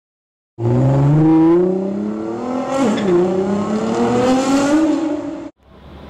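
Mercedes-Benz G63 AMG 6x6's twin-turbo V8 accelerating hard. The engine pitch climbs steadily, dips sharply at a gear change about three seconds in, then climbs again before cutting off suddenly near the end.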